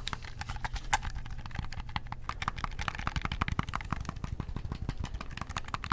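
Rapid typing on a computer keyboard: a fast, continuous stream of key clicks.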